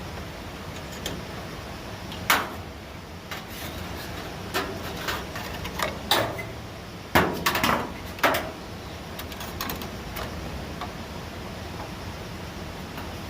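A run of irregular knocks and clatters over a steady low rumble, with the loudest knocks about two seconds in and again near seven seconds.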